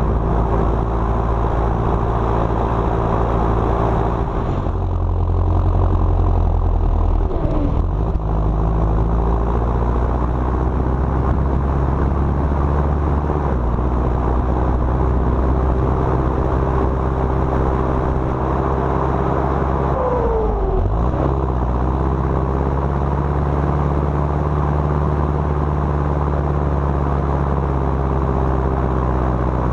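John Deere 6230 tractor's four-cylinder turbo diesel running steadily under load, pulling a loaded trailer on the road. Twice, about a third of the way in and again past two-thirds, the engine note drops and climbs back.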